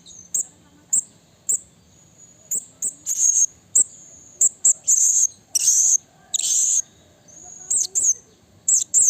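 Blue-crowned hanging parrot (serindit) calling: a run of shrill, high-pitched notes, mostly short sharp chirps with a few longer notes of about half a second, in irregular clusters. A faint steady high tone runs between the calls.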